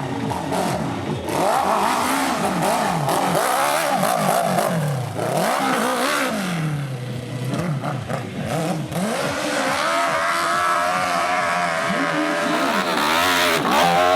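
Several motocross bike engines revving, overlapping one another, their pitch rising and falling again and again.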